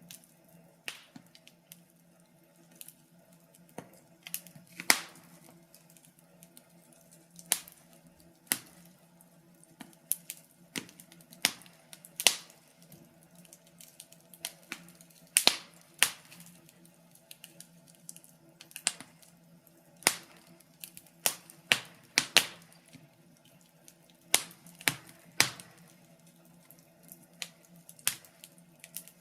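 Wood fire crackling in a fireplace: irregular sharp pops and snaps, a few to several a second, some much louder than the rest.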